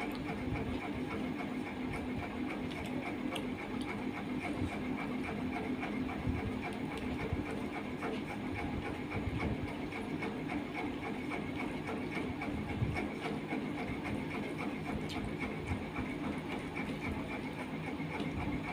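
Close-up eating sounds of a person eating curry and rice by hand: chewing and small wet mouth clicks, and fingers mixing rice on a steel plate, over a steady background hum.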